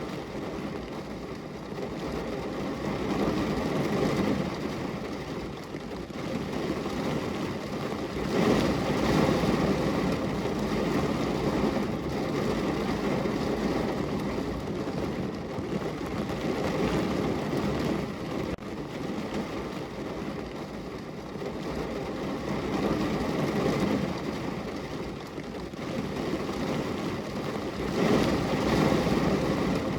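Heavy rain falling on a car's roof and body, heard from inside the car: a dense, steady patter that swells louder for a few seconds at a time, most strongly about eight seconds in and again near the end.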